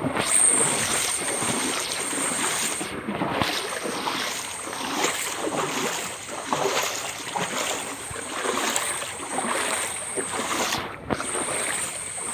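Someone wading through floodwater, with a swishing splash at each step about once a second.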